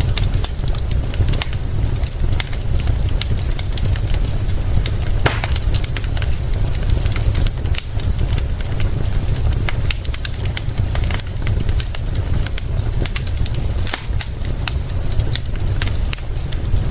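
Wood fire crackling with frequent sharp pops, one louder pop about five seconds in, over a steady deep rumble and hiss of rain.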